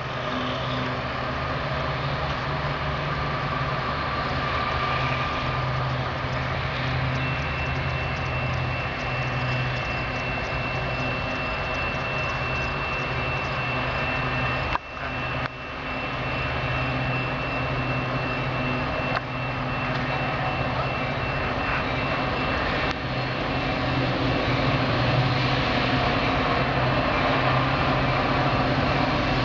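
Steady low rumble of an approaching Metra diesel commuter train, growing slightly louder over the last few seconds.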